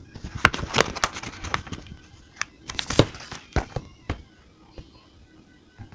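Paper and stationery being handled at a desk: a quick, uneven run of clicks, taps and paper rustles, crowded into the first four seconds and then thinning out. Soft game-radio music plays underneath.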